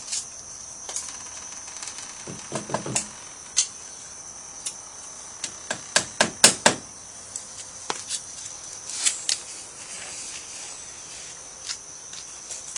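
A hammer tapping shims in beside a jacked-up post: irregular knocks, with a quick run of harder strikes about halfway through.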